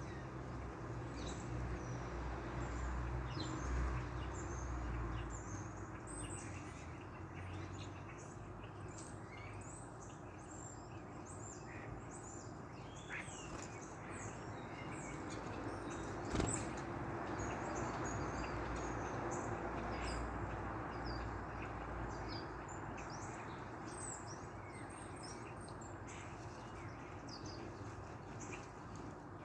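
Small birds chirping and twittering in many short, high calls throughout, over a steady low background rumble, with one sharp click about halfway through.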